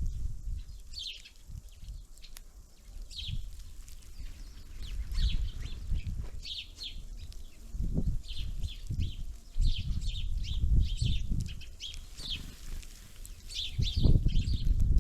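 Small songbirds at a winter feeder calling with short, high chirps, thickest from about five seconds in. Low rumbling bumps close to the microphone come and go, loudest near the end.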